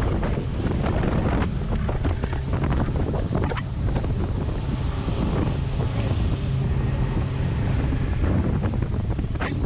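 Wind buffeting the microphone over the steady low drone of a boat's outboard engines and water rushing and splashing along the hull as the boat runs under way while towing another boat.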